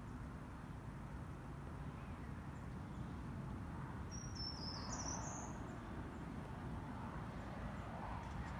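A small bird sings one short, high-pitched phrase of quick stepped notes about four seconds in, over a steady low rumble.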